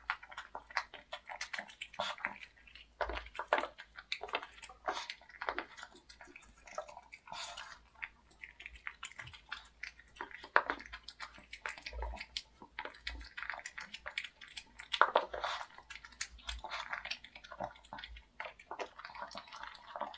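A dog eating moist fresh-cooked food: irregular wet chewing, smacking and licking sounds.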